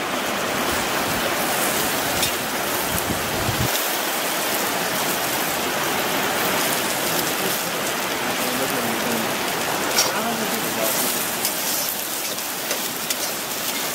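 Chopped vegetables (onion, green beans, carrot) sizzling steadily in hot oil in a wok over a wood fire. There are a few sharp clicks of a metal spatula against the wok as they are stirred, one about ten seconds in and more near the end.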